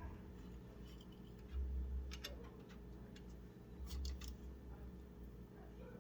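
Hands handling cables inside a PC case: low dull bumps and a few sharp plastic clicks, two near the second mark and a short cluster about four seconds in.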